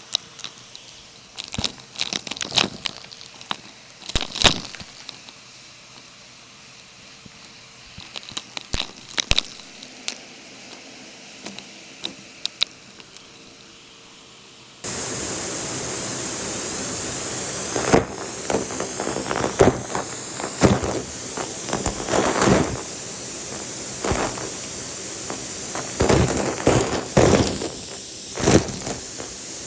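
Scattered sharp clicks and taps at a low level, then about halfway through a Numatic canister vacuum cleaner starts suddenly and runs with a steady loud rush of air. Sharp clicks and crackles sound over the rush.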